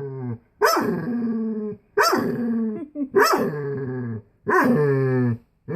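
A dog barking repeatedly: about four long, drawn-out barks, each about a second long and falling in pitch, with short gaps between them.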